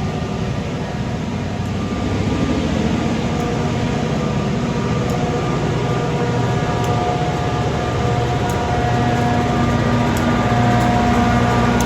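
Train running past with a steady engine drone and rumble that slowly grows louder, with a few faint clicks.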